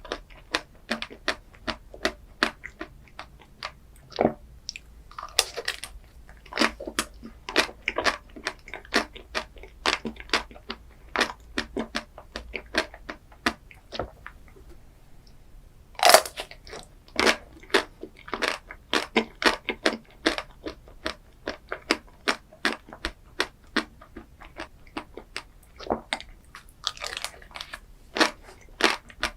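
A person eating chocolate ice cream desserts, biting and chewing with a steady run of crunches and crackles, a few a second. One loudest crunching bite comes about halfway through.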